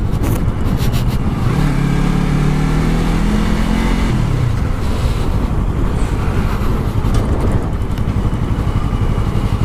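Yamaha R3 sport bike's 321 cc parallel-twin engine under way, its pitch rising for a couple of seconds as the bike accelerates, then dropping about four seconds in.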